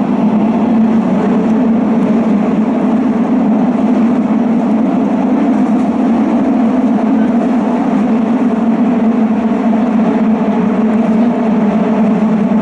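Steady running noise of a Hanshin rapid-express train in motion, heard from inside the passenger car.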